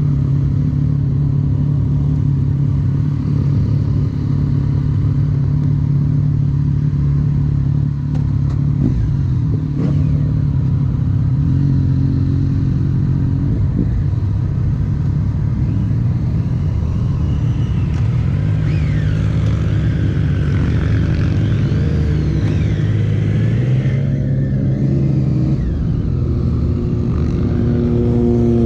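Motorcycle engine running while riding, steady and loud, its pitch shifting a few times as the revs change.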